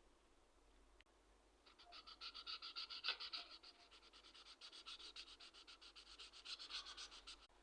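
Felt-tip marker squeaking on paper in a fast run of back-and-forth strokes, starting about two seconds in and stopping just before the end.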